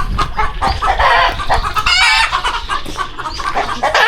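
Many chickens clucking and calling over one another, with one louder, sharper call about halfway through.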